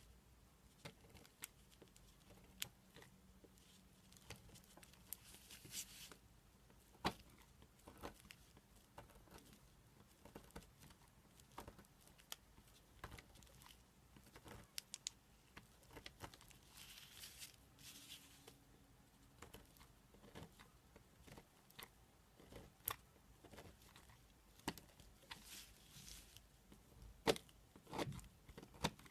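Slime being squeezed and stretched by hand: quiet, irregular sticky clicks and pops, with a few short crackling, tearing stretches.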